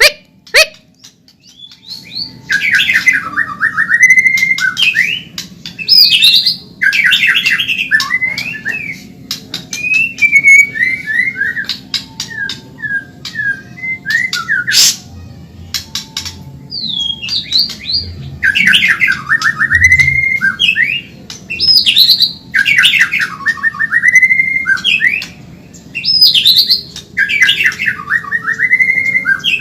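White-rumped shama (Medan murai batu) singing fast and energetically: repeated phrases of rapid trilled notes that dip and rise again, with a short lull about halfway through.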